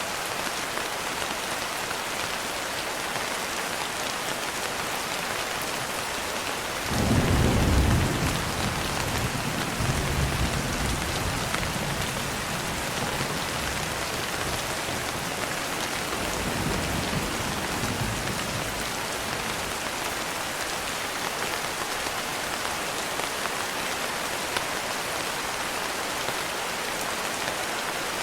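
Steady rain with a thunderclap about seven seconds in, followed by low rolling thunder that rumbles on and dies away over the next ten seconds or so.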